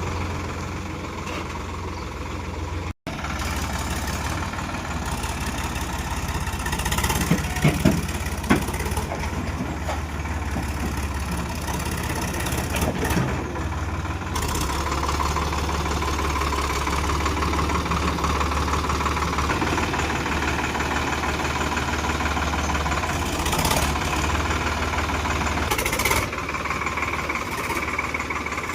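Diesel tractor engine running steadily, with a few sharp knocks or clanks about seven to eight seconds in.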